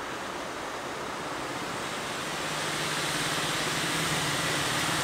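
Diesel train approaching, its rolling noise growing steadily louder, with the engine's low hum coming in about two and a half seconds in.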